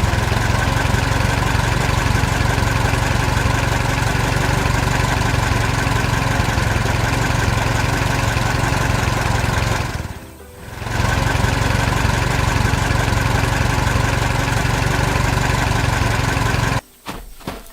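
A motor running steadily with a low drone. It fades out briefly about ten seconds in, picks up again, and cuts off suddenly near the end.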